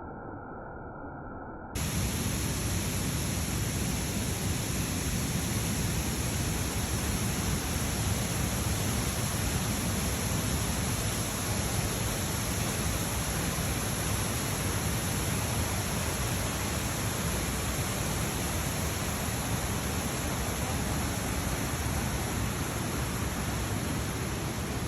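Steady rushing of a waterfall, close to the microphone, cutting in abruptly about two seconds in after a brief quieter, muffled stretch.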